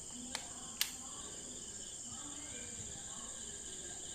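Crickets chirping steadily in the background, with two short clicks in the first second.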